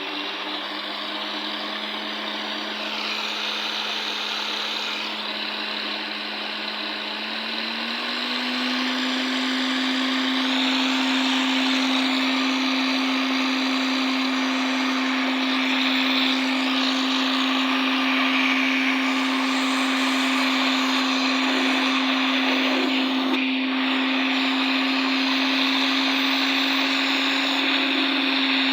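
Vacuum cleaner motor-fan unit running on test: a steady whine over a loud rush of air, rising in pitch about seven to eight seconds in as the motor spins up, then holding steady.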